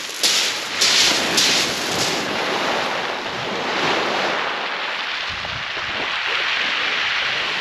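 Sea waves breaking and washing on the shingle of Chesil Beach, a steady rushing hiss with a few sharper rushes in the first second or so, and some wind on the microphone.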